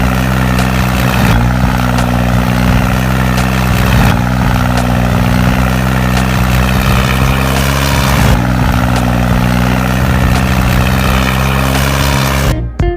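Steady tractor engine drone, running evenly at a constant pitch with brief small dips, which cuts off suddenly near the end as guitar music starts.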